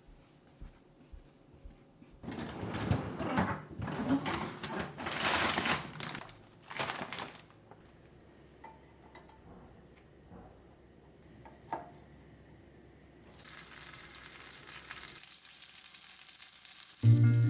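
Breakfast being cooked in a pan: several seconds of loud, uneven stirring and scraping, then a few light clinks of utensils, then food sizzling steadily.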